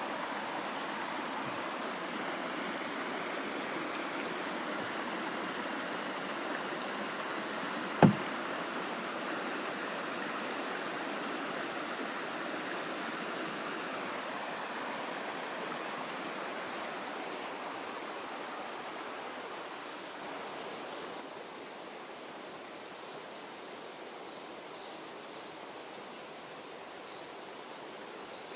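Shallow river water rippling over rocks, a steady rush that eases off after about twenty seconds. A single sharp knock about eight seconds in is the loudest sound, and faint high chirps come in near the end.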